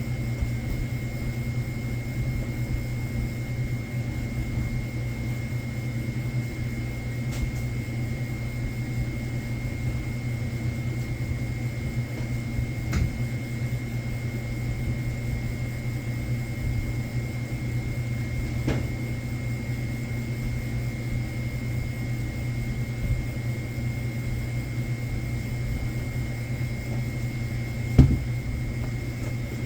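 Steady machine hum with a thin, constant high whine over it. A few short knocks break in, the loudest one near the end.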